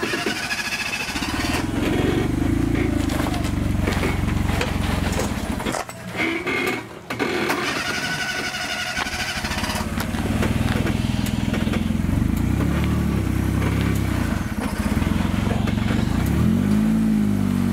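Modified Suzuki Jimny JA11's engine running under load as it crawls up a rock ledge, with the revs rising and then falling near the end.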